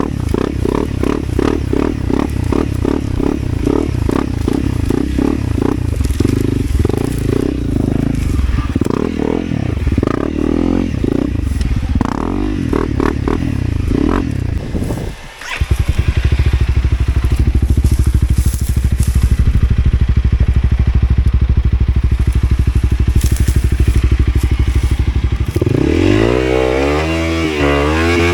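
Off-road motorcycle engine running under changing throttle. About fifteen seconds in it drops away briefly, then runs steadier, and near the end the revs climb and waver.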